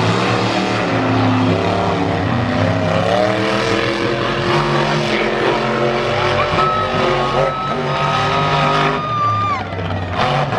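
Monster truck engine running loud and revving, its pitch climbing a couple of seconds in, with a steady high whine partway through.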